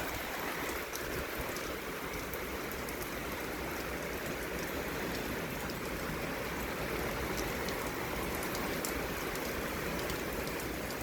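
Heavy thunderstorm rain falling steadily, with scattered sharp ticks of drops striking close by.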